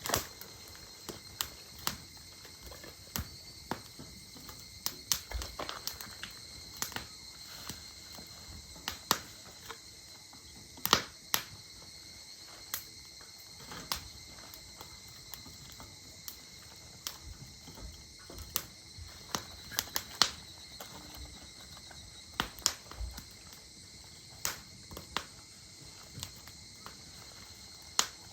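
Firewood burning in an open campfire, crackling with irregular sharp pops at uneven intervals, a few of them louder.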